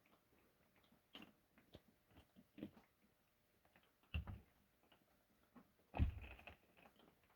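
Clumps of wet snow dropping from a pine tree onto a camper roof: faint, scattered soft thumps and pats at irregular intervals, the two heaviest about four and six seconds in.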